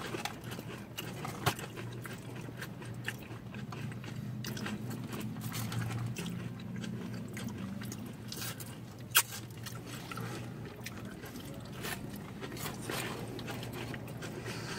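People chewing and biting into crispy fried onion rings: soft crunches and mouth sounds over a faint steady low hum, with a sharp click about nine seconds in.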